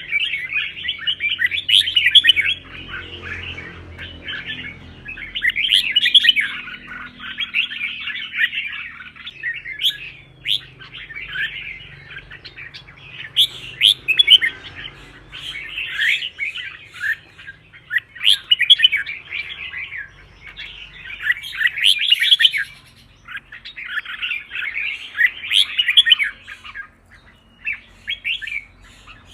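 Red-whiskered bulbul singing its fast, chattering contest song in phrases of a second or two, one after another with short pauses between.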